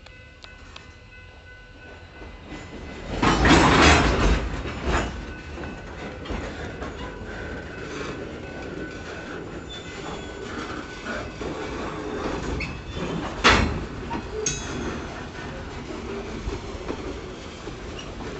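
Freight train cars rolling slowly on the rails during switching, with thin wheel squeal and a steady rumble; a loud swell of noise a few seconds in, and a sharp metallic bang about two-thirds of the way through, followed by a smaller one.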